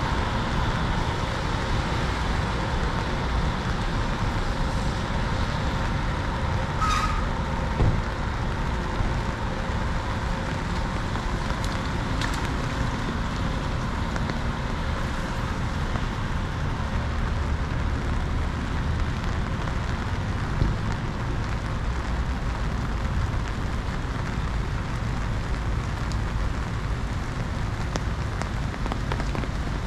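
Steady rain falling on a city street with road traffic going by. Two sharp knocks stand out, about eight seconds in and again around twenty-one seconds.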